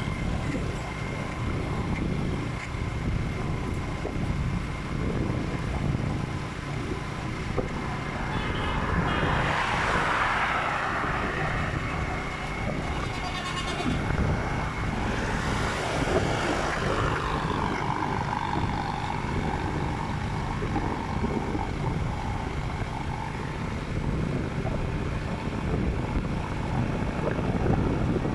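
Motorcycle riding along a road: steady engine rumble mixed with road and wind noise. Two louder swells of noise come about ten seconds in and again about six seconds later.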